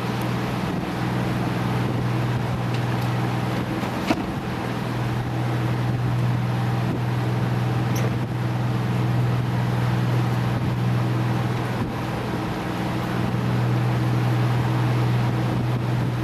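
Boat engine running steadily underway, a constant low drone, with a couple of brief clicks about four and eight seconds in.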